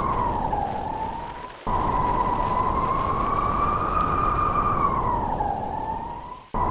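Blizzard wind howling: a long wavering whistle that slowly rises and falls in pitch over a loud rushing noise. The whole sound dies away and then cuts back in abruptly, once early and again near the end, like a looped recording.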